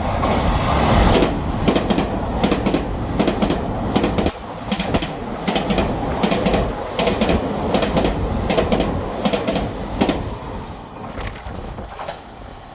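Taiwan Railway train passing through the station at speed without stopping, its wheels clattering over the rail joints in a long run of sharp clacks. The noise fades away near the end.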